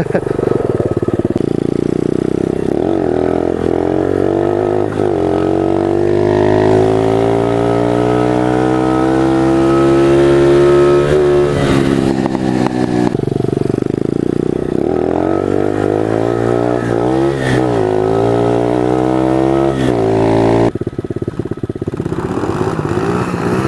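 Pit bike engine revving with its rear wheel spinning free: the revs climb steadily for several seconds, drop back, rise and fall a few more times, then settle to a lumpy idle near the end.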